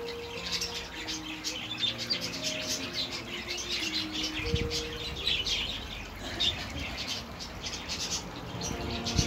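Small birds chirping, a busy run of short high calls.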